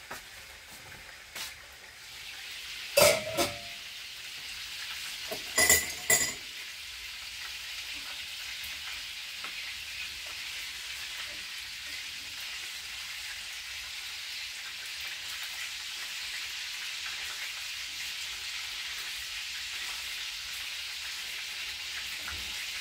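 Meat-and-cabbage cutlets sizzling in oil in a frying pan, the sizzle growing louder about two seconds in and then holding steady. A few sharp metallic clanks of utensil against pan come about three seconds in and again around six seconds in.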